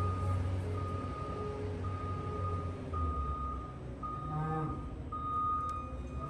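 Backup alarms of a skid steer and a feed truck beeping: a high-pitched beep repeating about once a second and a lower-pitched beep, over a low engine rumble.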